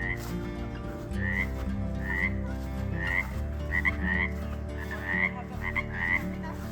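Frogs calling in a chorus: short chirping calls repeat about once a second over a steady lower hum of more calls.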